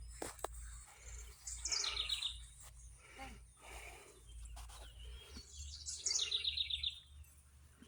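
A songbird singing the same short phrase twice, about four seconds apart: each phrase is a few high notes dropping into a fast trill.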